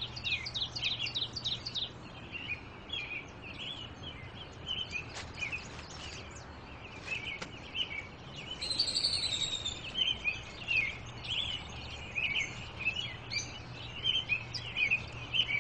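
Many small caged birds chirping busily over a low, steady hum, with a higher, longer call standing out about nine seconds in.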